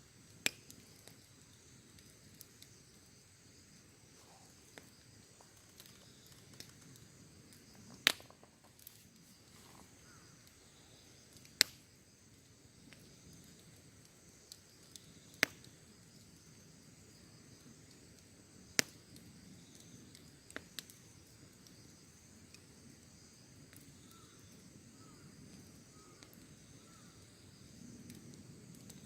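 Wood campfire crackling: sharp pops every few seconds over a low, steady rush, with insects trilling steadily in the background.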